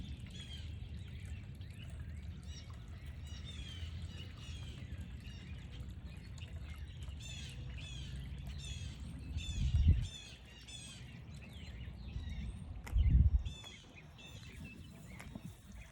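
Dense chorus of many short, high chirping calls repeated and overlapping, over a steady low rumble, with two louder low thumps about ten and thirteen seconds in.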